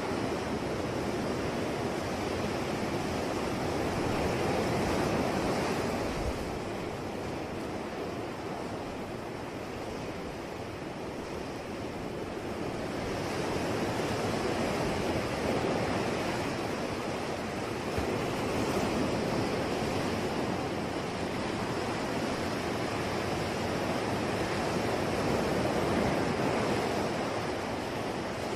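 Ocean surf: waves breaking and washing in a steady rush of noise that swells and eases every several seconds.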